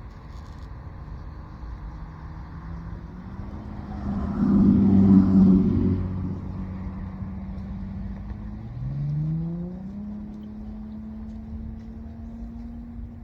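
A motor vehicle's engine running, loudest about five seconds in, then rising in pitch as it speeds up and holding a steady higher note.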